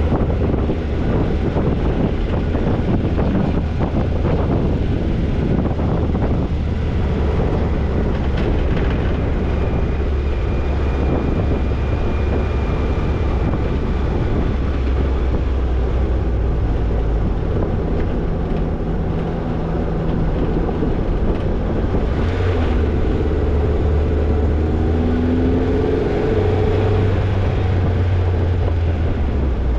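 Toyota Tercel 4WD wagon driving slowly over a rough trail: the engine runs steadily at low revs while the body and gear knock and rattle. The engine note rises and falls a few times in the second half.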